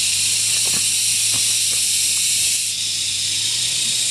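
A steady, loud, high hiss with a low hum beneath it and a few faint clicks.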